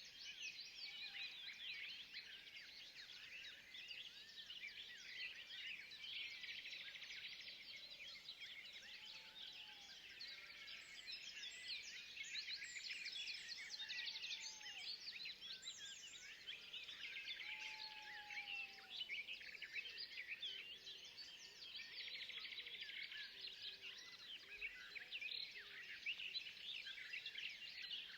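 Forest ambience: a dense, continuous chorus of many rapid high-pitched chirps, with a few lower arching calls near the middle.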